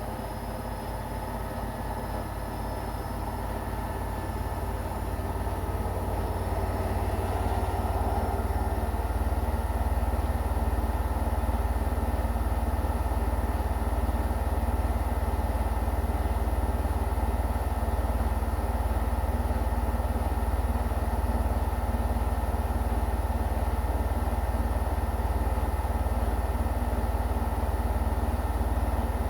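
Washing machine running: a steady low drone that builds louder over the first ten seconds or so, then holds level.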